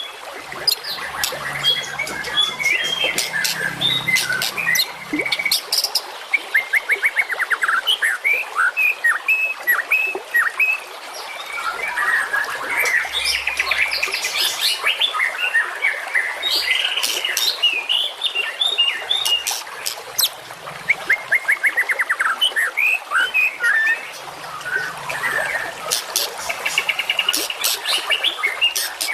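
Recorded songbird song played back continuously: a dense run of quick chirps, short whistled notes and sharp clicking calls, with fast trills about a quarter of the way in and again past the middle.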